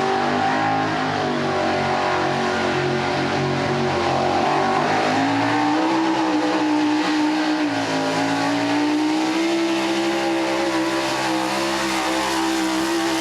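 4x4 truck engine held at high revs under load through a pull, running steady with a brief dip in pitch about eight seconds in.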